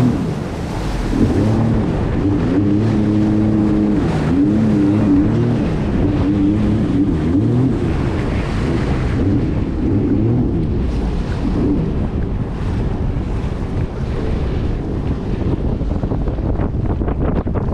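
Jet ski engine running on the water, its pitch wavering up and down through the first half, with water rushing and wind buffeting the microphone.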